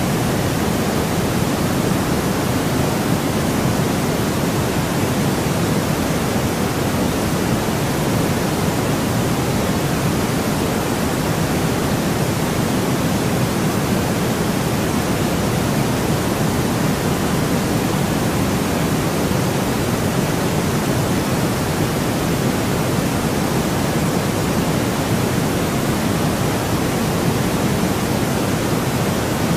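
Steady, unchanging white noise: an even rushing hiss, heavier in the low and middle range than at the top.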